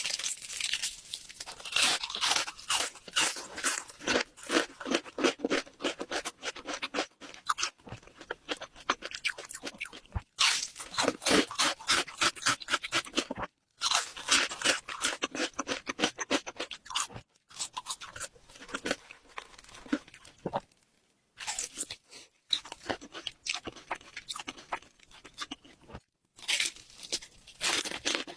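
Close-miked crunching and chewing of crisp food: rapid crackling bites, breaking off briefly several times.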